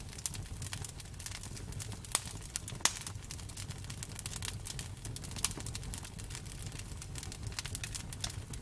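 Campfire burning, with irregular crackles and pops over a low steady rumble of the flames; the sharpest pops come about two and three seconds in.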